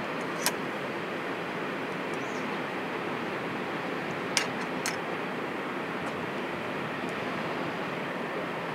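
Covered grain hopper cars rolling past on steel wheels: a steady rumbling rush of wheels on rail, with a sharp clack about half a second in and two more close together around four and a half seconds in.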